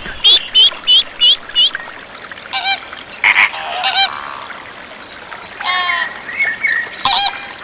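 Water birds calling: a quick series of five short calls in the first two seconds, then more calls spaced out through the rest.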